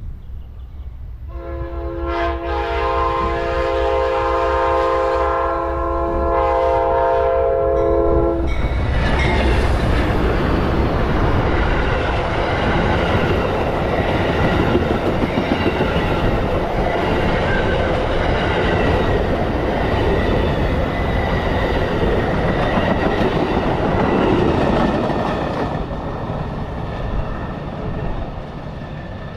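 Amtrak passenger train sounding a chord-type horn in one long blast of about seven seconds. The train then passes with rumbling and wheel clatter, fading away near the end.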